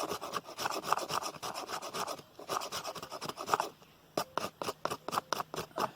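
Knife blade scraping fine shavings off a stick of resinous fatwood in quick repeated strokes. After about four seconds the strokes come slower and more separate, about four a second.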